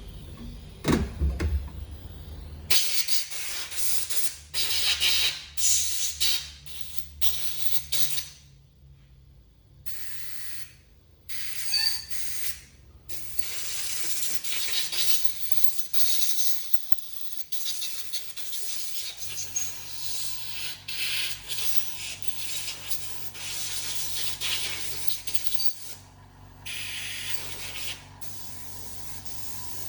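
Repeated bursts of hissing spray while the small internal parts of a Denso common-rail injector are cleaned, some short and some held for several seconds, over a steady low hum.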